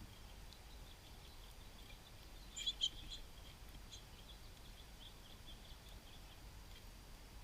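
Small songbirds giving short, high chip calls over and over, with a louder pair of chips about two and a half seconds in.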